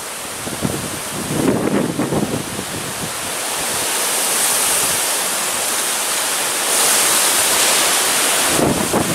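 Strong, gusty storm wind rushing, swelling about three seconds in to a loud hiss that peaks around seven seconds, with the wind buffeting the microphone in low rumbles near the start and again near the end.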